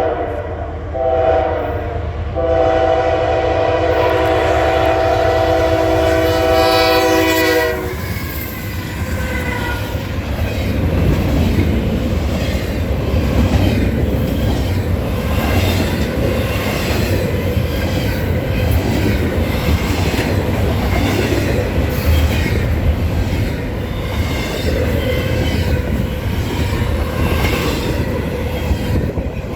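Norfolk Southern freight locomotive's multi-chime air horn sounding two short blasts and then one long blast of about five seconds. The lead locomotive then passes with a heavy rumble, and the train's cars follow, their wheels clattering steadily over the rail joints.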